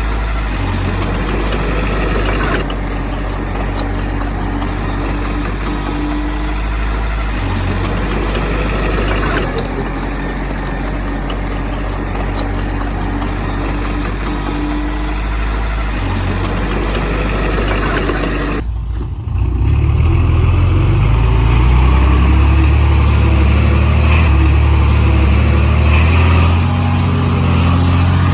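Heavy diesel earthmoving machinery running steadily, the engines of a bulldozer and dump trucks at a fill site. About two-thirds of the way in, the sound cuts off abruptly and resumes louder, with a deeper engine sound.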